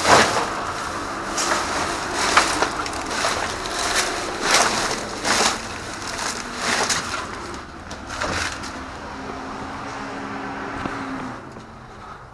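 Rummaging through discarded packaged goods: plastic wrap and bags crinkling and rustling, with irregular sharp crackles and knocks as items are handled and shifted.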